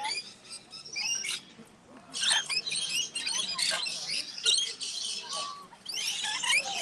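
Many birds chirping and squawking in quick, overlapping calls, with a brief lull about one and a half seconds in.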